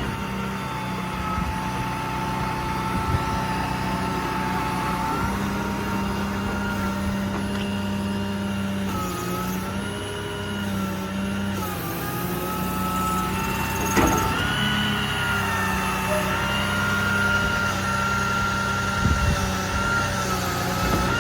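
Service truck engine running with its PTO driving the hydraulic pump for a truck-mounted crane being operated. A steady hum under a whine whose pitch dips and rises as the crane functions are worked, with a sharp click at the start and another about 14 seconds in.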